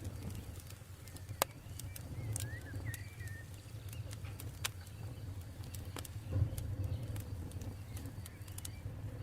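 Campfire crackling: irregular sharp pops and snaps over a low steady rumble, with the loudest pop about one and a half seconds in. A few brief bird chirps come between two and three seconds in.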